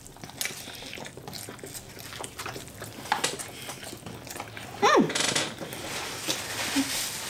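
Two people chewing soft, soggy tacos: wet chewing and lip-smacking clicks. About five seconds in comes a short rising-then-falling pitched sound, the loudest thing here, with a brief rustle just after it.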